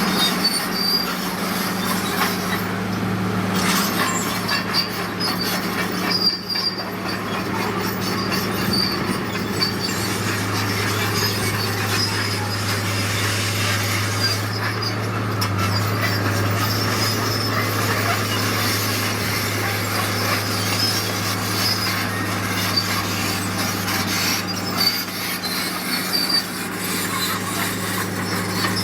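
Heavy earthmoving machine's diesel engine running steadily, with metallic squealing and clanking over it throughout.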